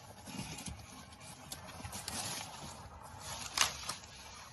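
Rustling and scraping of potato foliage and soil being handled in a raised bed, with scattered small clicks and one sharper knock about three and a half seconds in.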